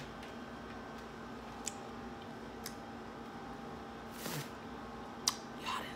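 Close-up mouth sounds of a person chewing smoked turkey sausage: a few sharp wet clicks and smacks, with a brief louder smack about four seconds in. A steady background hum runs under it.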